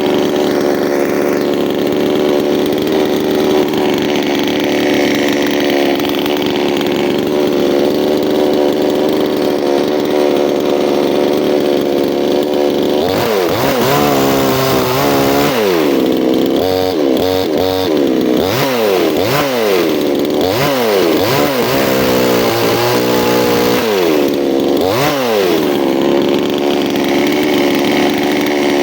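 Two-stroke chainsaw engine running at a steady pitch, then from about halfway through its pitch repeatedly dips and climbs back, a dozen or so times, before settling steady again near the end.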